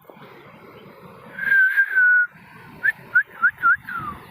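A person whistling close by: one long held note, then four quick upward-flicking chirps and a falling note near the end, over the steady rush of the waterfall.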